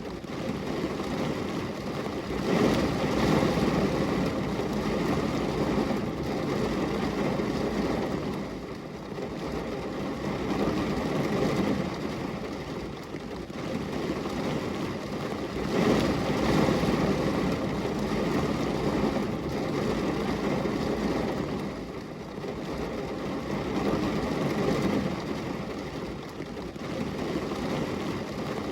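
Steady rain on a glass window, a dense even patter that swells and eases in slow waves about every thirteen seconds.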